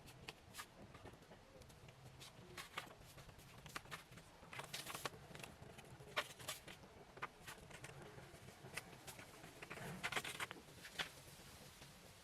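Faint, irregular light clicks and crackling rustles, as of hands handling dry material, in no steady rhythm.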